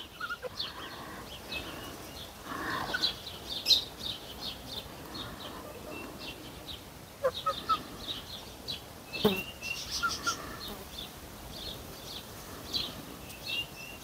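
Birds chirping in a steady run of short, high chirps, with one brief sharp click about nine seconds in.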